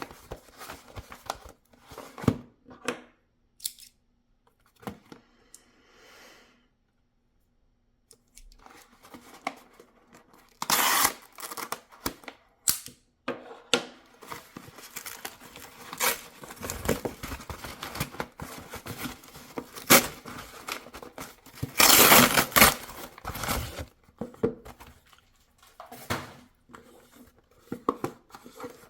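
Packaging being opened by hand: paper and cardboard rustling, scraping and tearing, with small clicks of handling. There is a pause of about two seconds early on, and the loudest stretches of tearing and rustling come about a third of the way in and again about three quarters of the way in.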